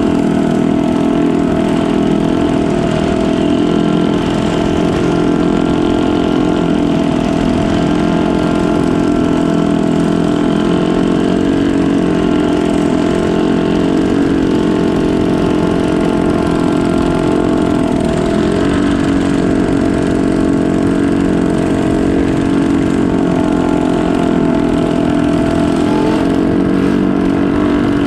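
Canal boat engine running steadily and loudly, with brief drops and recoveries in engine speed about two-thirds of the way through and again near the end.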